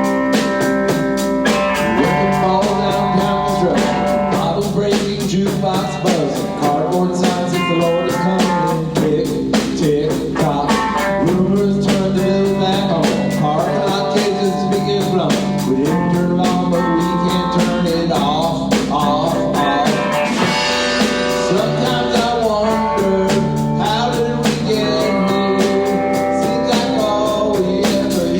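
Live rock band playing: electric guitar, bass and drums with a steady beat, and a singer's voice over them.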